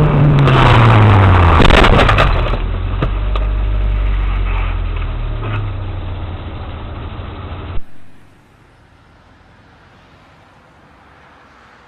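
Car collision: a vehicle's engine falls in pitch, then comes a loud crash with sharp clattering impacts from about half a second to two seconds in. A steady low engine rumble follows, fading and cutting off suddenly about eight seconds in.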